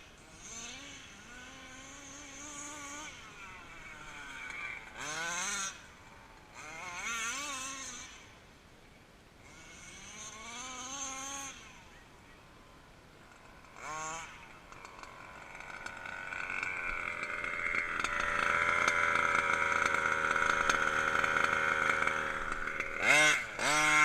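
29cc reed-valve two-stroke petrol engine of an HPI Baja RC car, revved in a series of short rising-and-falling bursts, then held at high revs for about seven seconds, growing louder, before two sharp blips near the end.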